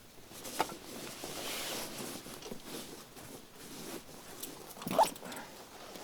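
Rustling handling noises, with a small click early and a single sharper knock about five seconds in.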